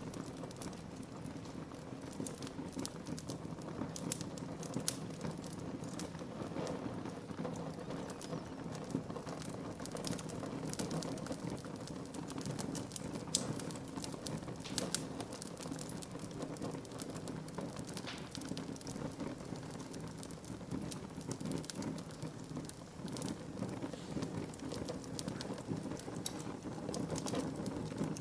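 Wood fire burning in a fireplace: a steady low rush of flames with frequent small crackles and pops from the burning wood, scattered irregularly throughout.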